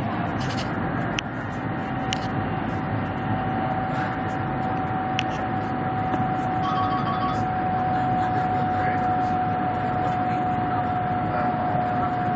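Steady rumble and rush of a high-speed bullet train running at speed, heard inside the passenger carriage, with a steady whine held at one pitch throughout.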